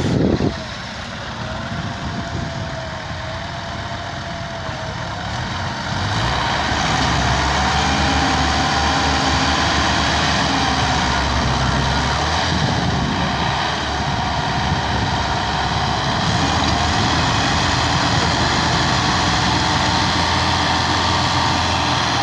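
Tractor engine running steadily, straining to haul a loaded sugarcane trolley. It gets louder about six seconds in and holds there. A short loud burst comes at the very start.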